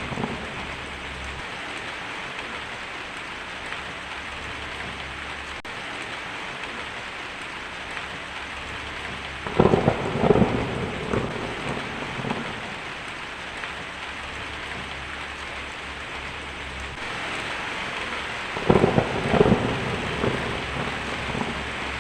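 Steady rain with thunder rumbling twice, once about ten seconds in and again near the end.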